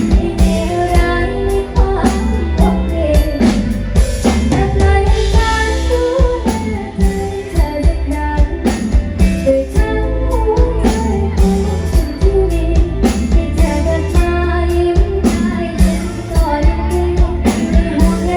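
A woman singing a Thai pop ballad, backed by a band with guitar and drum kit keeping a steady beat.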